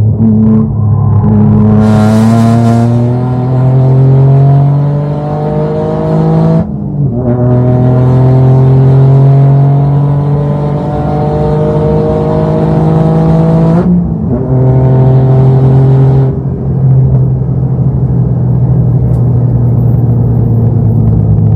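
Toyota GR Yaris engine accelerating hard through the gears: the note climbs, drops sharply at an upshift about seven seconds in, climbs again, and drops at a second upshift about fourteen seconds in. About sixteen seconds in the throttle comes off and the engine holds at steady, lower revs.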